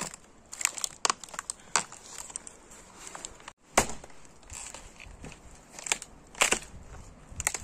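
Dry twigs and brush crunching and cracking in irregular sharp snaps, with a brief dropout about halfway through.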